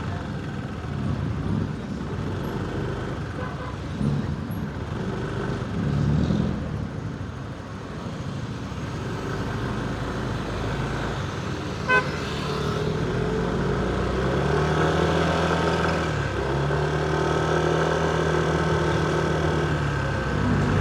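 Motorcycle riding through city traffic: engine and road noise throughout. A sharp click comes about twelve seconds in. After that an engine's pitch rises, holds and falls back twice.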